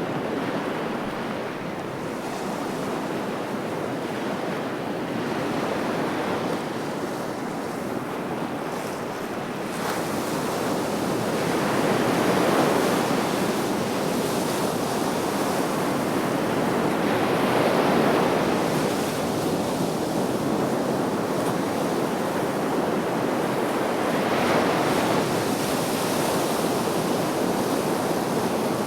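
Sea waves breaking and washing on the shore in a steady surf, swelling louder every several seconds, with some wind on the microphone.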